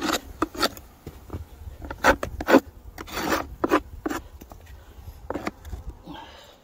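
Irregular scrapes and rubs of wooden beehive parts being handled as hives are opened and checked, with several sharper scrapes and knocks.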